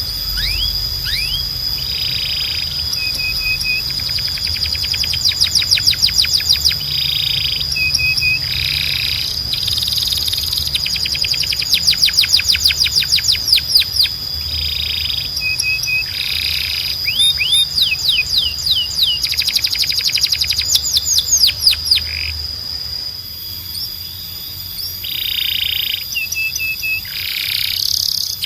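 Domestic canary singing: fast rolling trills of rapidly repeated high notes mixed with short chirped phrases, over a steady high whistle-like tone.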